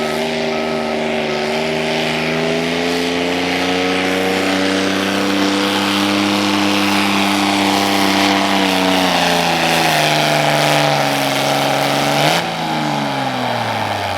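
Pulling vehicle's engine running hard under load down the track, its pitch holding and rising a little, then dropping in steps. About twelve seconds in there is a brief jolt, then the engine winds down as it comes off the throttle at the end of the pull.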